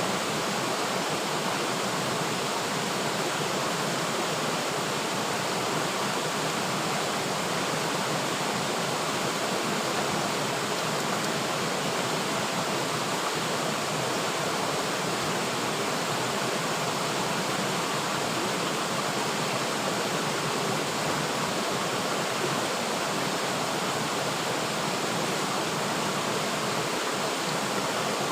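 River water flowing steadily: an even, unbroken rushing hiss of running water.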